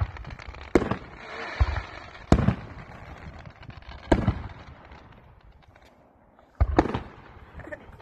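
Aerial firework shells bursting overhead: about six sharp bangs, each trailing off in echo, with a lull before two bangs in quick succession near the end.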